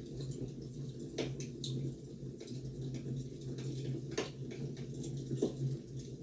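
Wood fire crackling: a steady low rumble of burning logs with scattered sharp pops and snaps, about five of them.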